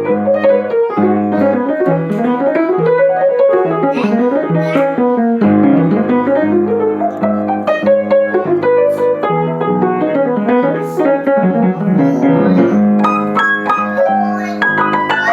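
Piano music: a keyboard playing a busy line of many quick notes, with several rising and falling runs.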